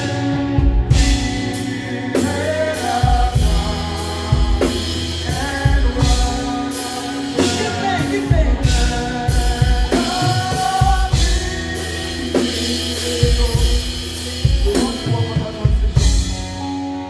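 Live worship band playing a gospel praise song: drum kit with sung vocals over sustained instruments.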